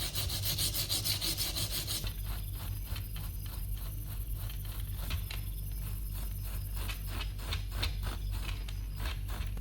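Back-and-forth rubbing strokes of hand abrading on wood. The strokes are rapid at first, then about two seconds in they turn quieter and more widely spaced, keeping a regular rhythm. A steady low hum runs underneath.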